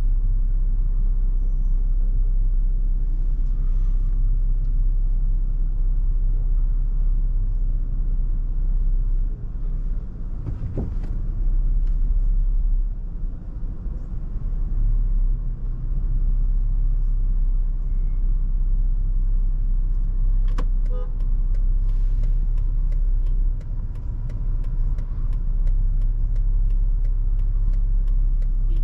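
Toyota FJ Cruiser driving in heavy wind: a steady low rumble of road and wind noise, with a couple of knocks and a run of light ticks in the last third.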